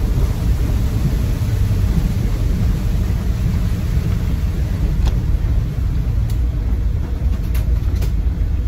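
Cabin noise of a 2014 Land Rover Defender 90 on the move, its 2.2 TDCi four-cylinder diesel and the tyres on wet road making a steady low drone. A few faint clicks come through in the second half.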